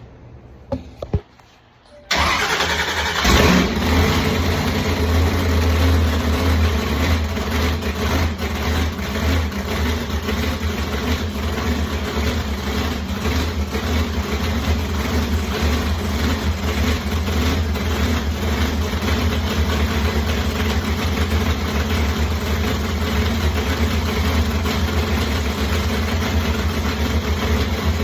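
Car engine cranking over for about a second, then catching with a loud burst and settling into a steady idle. A couple of short clicks come before the cranking.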